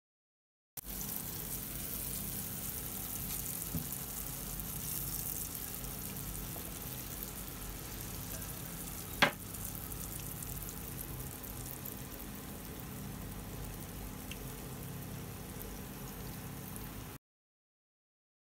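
Egg and cha-om (Acacia pennata) omelet frying in hot oil in a nonstick pan: a steady sizzle, with one sharp click about halfway through. The sizzle starts after a moment of silence and cuts off suddenly near the end.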